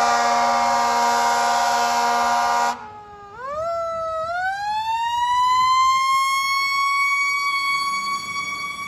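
Fire truck responding: a loud horn blast cuts off about three seconds in, then the siren winds up in a rising wail and holds at a high steady pitch.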